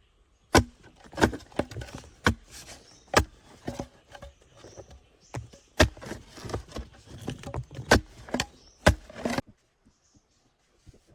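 Sharp knocks at irregular spacing, roughly one a second, with rustling and scraping between them; they stop abruptly about nine seconds in.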